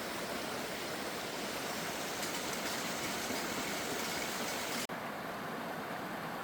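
Steady rush of flowing river water, an even hiss with no distinct events. About three-quarters of the way through it breaks off for an instant and comes back duller.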